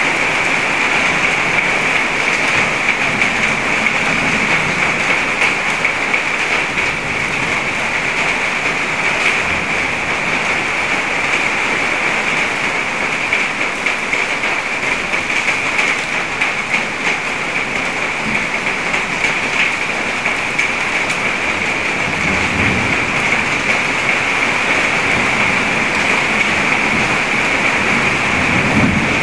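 Steady rain falling onto a water surface, a dense even hiss of drops. Brief low rumbles come in about two-thirds of the way through and again near the end.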